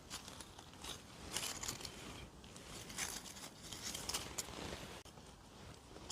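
Rustling and crunching of forest-floor litter as mushrooms are picked by hand, in short irregular bursts with a few sharp clicks.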